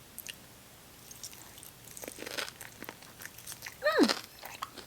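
Close-miked chewing of chicken wings: wet mouth clicks and small crunches, scattered and irregular. About four seconds in comes one short hum that falls in pitch.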